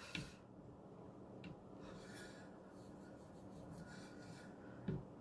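Faint rubbing with a few light clicks, near the start, about a second and a half in and near the end, from the knife and stone on the Edge Pro guided sharpener being handled between sets of sharpening strokes.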